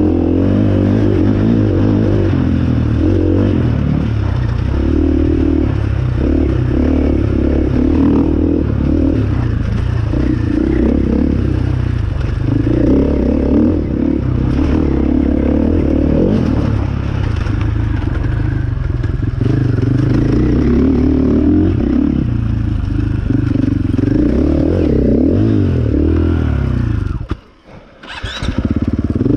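Enduro motorcycle engine revving and easing off over and over as it is ridden over a rough trail, with clatter and scraping from the bike. Near the end the engine stops suddenly for about a second, then a short rising whine, and the engine is running again.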